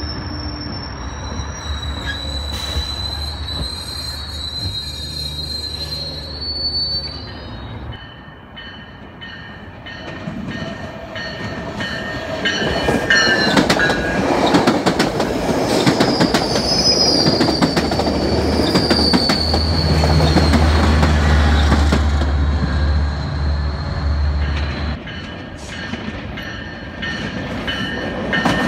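Metrolink bilevel commuter train rolling slowly past, its steel wheels squealing in high thin tones at the start and again midway. The coaches' wheels rumble and clack over the rail joints, loudest in the middle, over a low steady engine hum.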